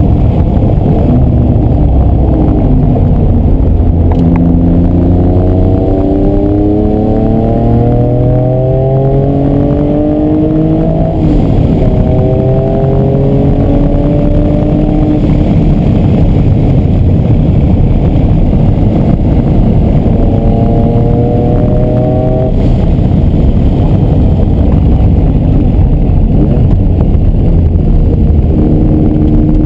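Noble M500 sports car engine heard from inside the cabin, accelerating hard on a race track. Its pitch rises in several long pulls through the gears, with steady road noise underneath.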